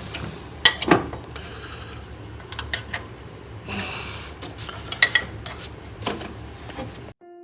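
Hand tools clinking and scraping against the exhaust hardware as the exhaust bolts are tightened: irregular sharp metallic clicks with a few short scraping stretches, cutting off abruptly near the end.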